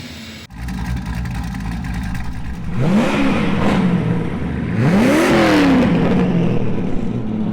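Twin-turbo 2006 Corvette Z06's V8 engine revving up sharply twice, about three seconds in and again about five seconds in, dropping back to a steady run after each.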